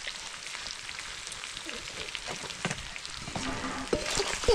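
Food sizzling as it fries in a pan: a steady crackle, with a couple of knocks near the end.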